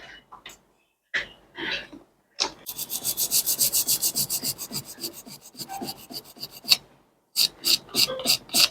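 Fast back-and-forth scrubbing on a phone circuit board at about ten strokes a second, a cleaning of the pads where the ringer IC was removed. A few slower single strokes follow near the end.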